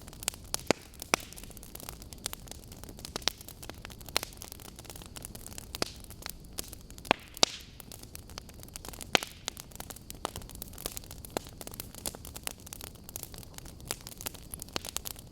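Wood logs burning in an open fire, crackling with irregular sharp pops over a steady low rumble and hiss.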